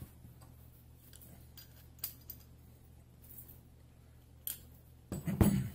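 Metal tools and scuba regulator parts handled on a wooden workbench: a few light metallic clicks, then a louder clatter about five seconds in. A faint steady hum runs underneath.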